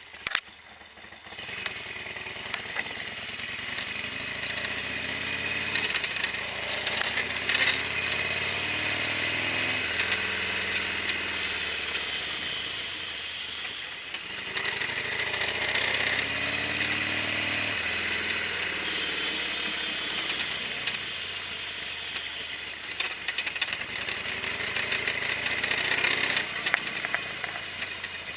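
Harley-Davidson Sportster XL1200R's air-cooled 1200 cc V-twin running. After a short click, it comes in about a second in. Its note climbs and drops back several times, as the bike accelerates through the gears.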